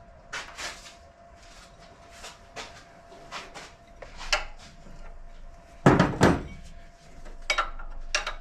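Metal hand tools clinking and clanking in a series of short, irregular knocks, with two louder clanks close together about six seconds in.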